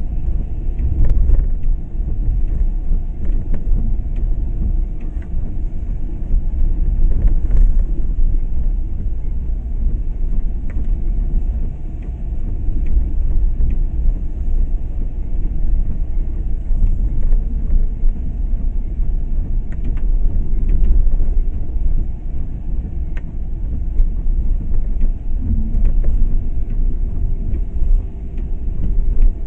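A car driving, with a steady low rumble of road and engine noise and a few faint clicks.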